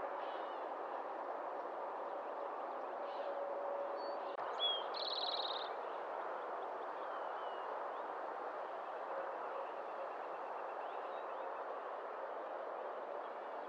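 Songbirds calling over a steady background hiss: a short, rapid high trill about five seconds in, a few brief chips, and a fainter trill in the second half.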